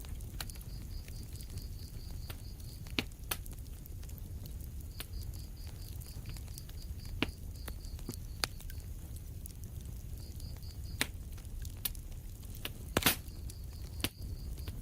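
Wood fire in a fireplace burning with a steady low rumble of flames and scattered sharp crackles and pops, the loudest a double pop near the end. A faint, rapid high-pitched ticking comes and goes in runs of a few seconds.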